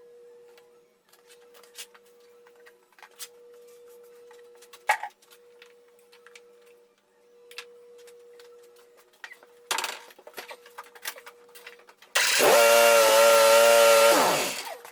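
Scattered light knocks and clicks of handling, then near the end a power tool's motor starts abruptly, runs for about two seconds and winds down.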